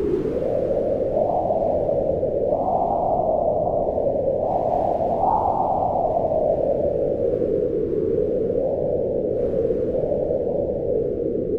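Wind blowing in gusts: a steady low rushing noise whose pitch swells upward about two and a half and five seconds in, then slowly sinks again.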